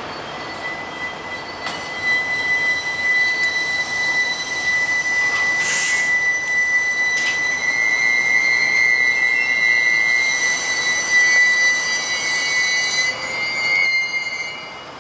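A train running by with a steady high-pitched squeal over the running noise. There is a brief sharp crack about six seconds in, and the sound falls away shortly before the end.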